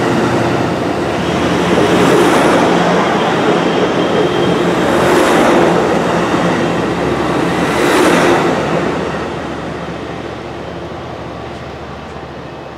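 A train passing on the tracks: a dense rush of wheels on rail with three louder swells as it goes by, dying away over the last few seconds.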